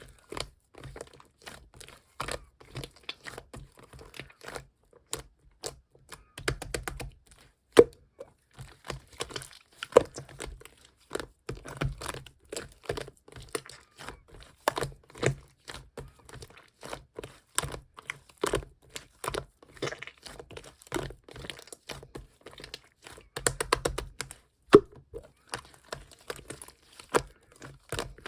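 Clear slime worked by hand, pressed, folded and stretched: a steady run of sticky clicks and small pops, with denser crackling flurries about six seconds in and again near the 24-second mark.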